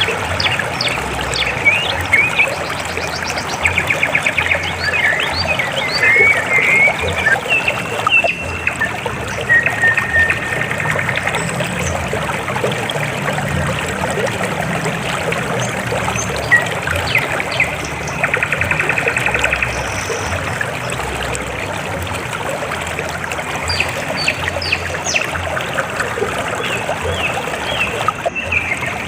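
River water flowing and trickling steadily, with birds chirping and giving short rapid trills over it now and then.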